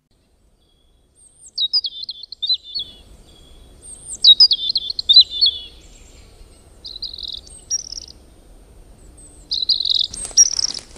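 A songbird singing: several quick, high, warbling phrases of song in groups, starting a little over a second in. A rustling noise comes in near the end.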